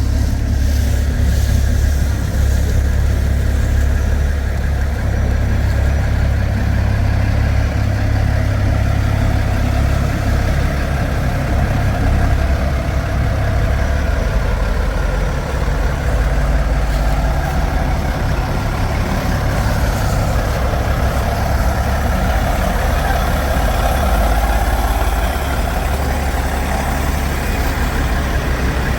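Heavy diesel truck engine running steadily with a loud, low rumble.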